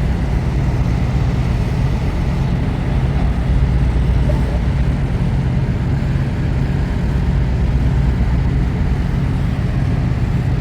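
Semi-truck's engine running with a steady low drone.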